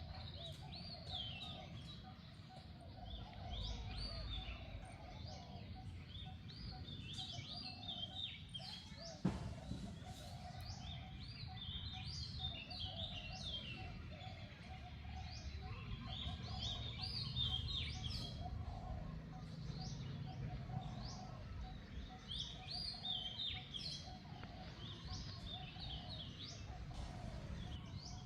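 Small birds chirping again and again in short bursts over a steady low outdoor rumble, with a single sharp click about nine seconds in.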